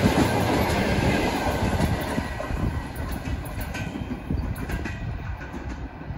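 Passenger coaches rolling past on the rails, their wheels clattering over rail joints, the sound fading steadily as the tail of the train moves away.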